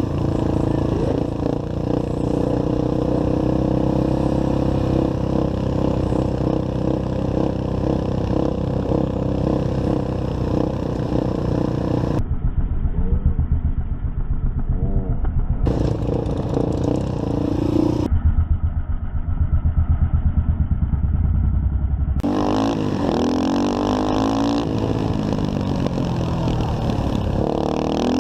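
Motorcycle engine running under way, its pitch rising and falling as it is revved. The sound changes abruptly several times, from about twelve seconds in.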